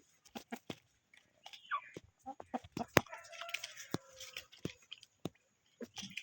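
Chickens pecking and tearing at water hyacinth: a quick, irregular run of sharp pecks, with a few soft clucks about halfway through.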